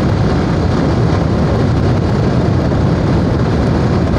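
Motorcycle riding along a road: a steady rush of engine and wind noise with no break or change.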